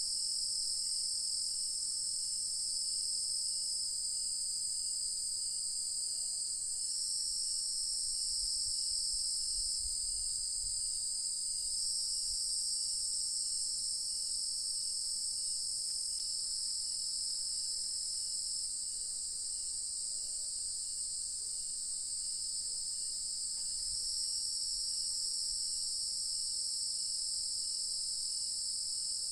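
Chorus of crickets trilling in a steady, unbroken high shrill whose pitch shifts slightly every few seconds, with a fainter call pulsing at an even pace beneath it.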